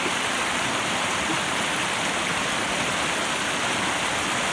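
Steady rush of a fast, high-running brook, its flow freed by a newly removed dam.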